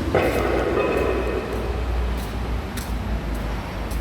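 Vehicle and road noise: a steady low rumble, with a sudden louder sound just after the start that fades over about a second and a half.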